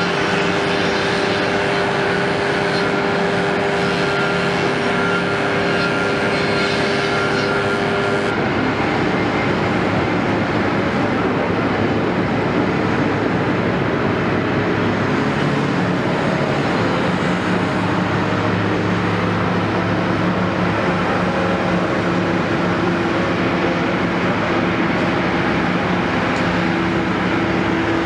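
Caterpillar 329E excavator's diesel engine running steadily under work. About eight seconds in, a higher whine drops out and the engine note shifts slightly.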